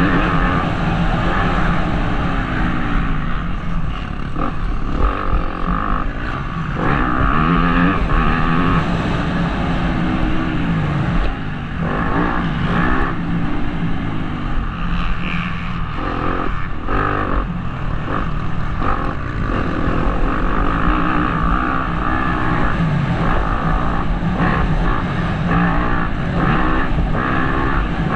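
Motocross bike engine revving up and dropping back again and again as the rider accelerates, shifts and brakes around the track, heard from a helmet-mounted camera.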